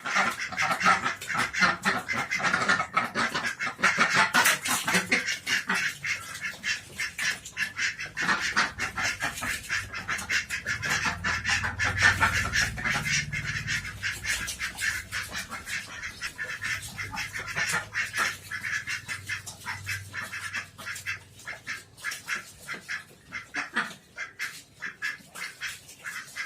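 Domestic Pekin ducks quacking, many calls overlapping in a dense, rapid chatter, loudest in the first half and thinning out toward the end.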